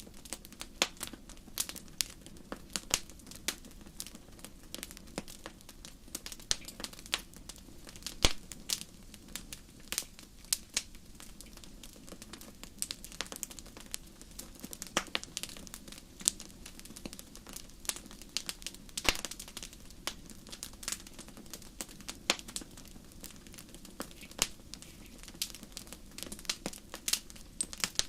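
Fire in a fireplace crackling: a steady stream of irregular sharp pops and snaps over a low, even rush of the flames.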